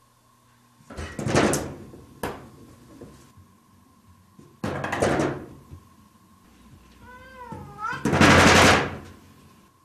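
A cat pawing at a wooden sliding door with frosted glass panes, rattling the door in its frame in three bursts of knocking. The first is about a second in, the next midway, and the loudest near the end. A cat meows once, briefly, with a wavering pitch just before the last burst.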